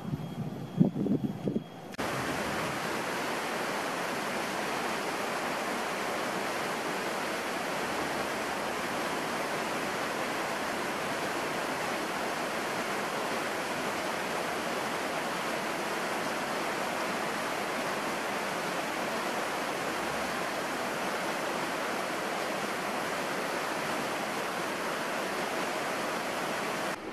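Heavy rain pouring steadily onto banana leaves. It sets in suddenly about two seconds in, after a brief knock and low handling sounds at a frying pan.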